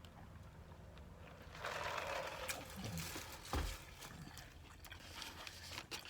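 A man chewing a fried chicken sandwich with wet mouth clicks and lip smacks, a longer burst of noise about two seconds in and a single thump about halfway through.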